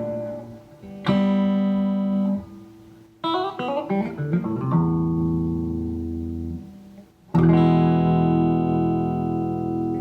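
Electric guitar playing chords that are struck and left to ring, with a quick run of picked single notes a little past three seconds in.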